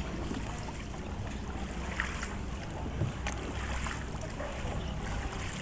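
Steady water and wind noise around a small tour boat on the water, over a low hum, with a few faint knocks about two and three seconds in.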